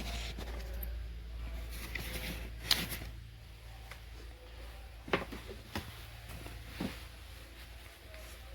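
A low steady hum with a few scattered, sharp knocks and clicks, about four over several seconds, like objects being handled or bumped.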